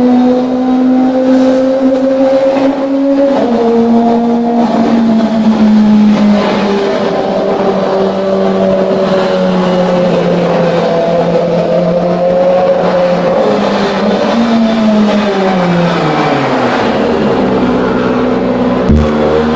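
Kawasaki ZX-25R's 250 cc inline-four engine running through an aftermarket exhaust at steady high revs, with a few small drops in pitch. About fifteen seconds in the revs fall away steadily, and there is a sharp knock near the end.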